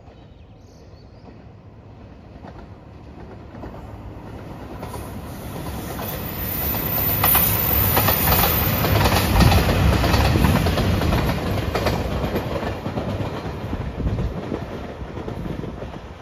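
JR Shikoku 2700 series diesel limited express train passing, its engines running and its wheels clacking over rail joints. It grows louder over the first half, is loudest about ten seconds in, then fades as it moves away.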